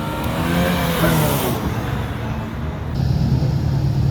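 Car engine revving, its pitch rising and falling over the first second and a half, then settling into a steady, louder low engine note from about three seconds in.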